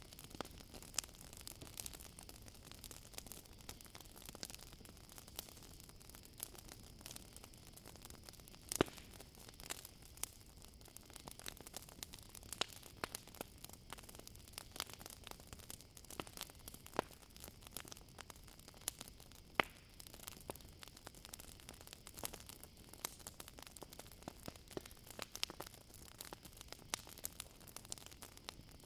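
Campfire crackling: irregular small pops and snaps from burning wood, two of them sharper than the rest, over a steady high chirring of crickets.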